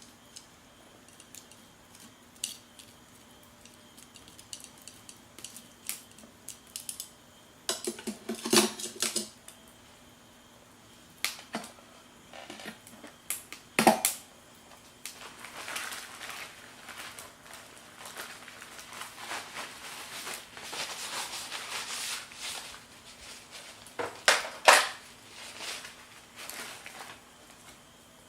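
Cookware and utensils handled by hand: scattered clinks and knocks, with a longer stretch of scraping or rustling about halfway through.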